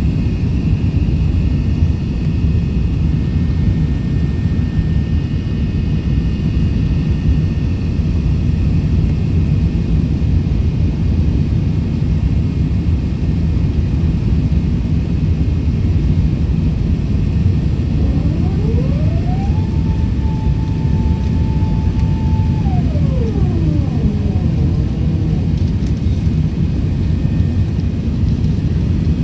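Airbus A380's four jet engines giving a steady, loud, even rumble. About two-thirds of the way through, a whine rises in pitch, holds for a few seconds, then falls away.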